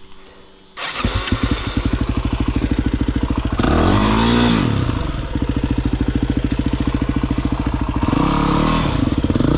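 Dirt bike engine starting up about a second in, then idling with an even pulse and revved up and back down twice, the larger blip a few seconds in and a smaller one near the end.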